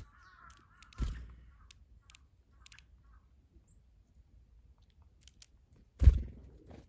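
Birds feeding right by the microphone: two dull knocks about five seconds apart, the second the louder, with a few light pecking clicks between. A bird's call trails off in the first second.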